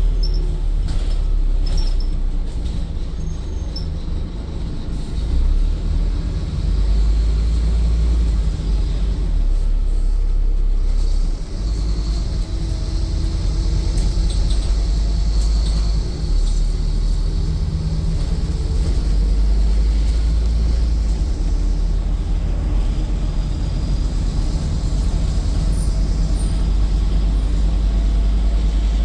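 Scania N230UD bus engine and drivetrain running under way, heard from inside the passenger saloon: a deep, steady drone that rises and falls as the bus pulls away, changes gear and eases off, with a brief dip about eleven seconds in.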